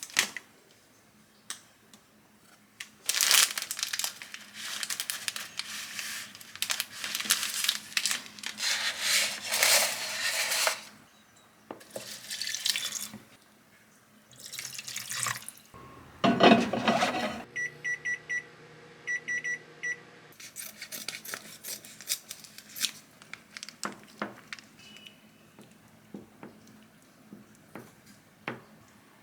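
Kitchen tap water running in several bursts, with small knocks and clicks of things being handled. About two-thirds of the way through, an appliance hums briefly and gives two short runs of electronic beeps.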